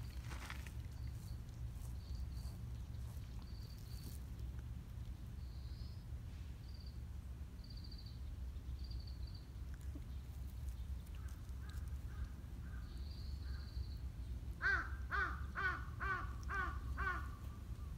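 Birds calling outdoors: a quick run of about seven harsh caws near the end, with fainter calls a few seconds earlier. Short, thin, high chirps repeat throughout over a steady low rumble.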